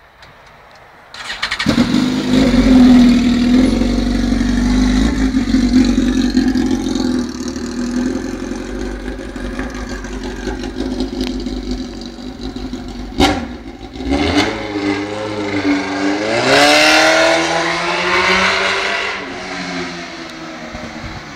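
Suzuki GSX-R 1000 K3's inline-four engine running with no exhaust fitted, so it sounds straight from the open headers. It starts up loud about a second in and runs steadily, then is revved up to a peak and falls back near the end.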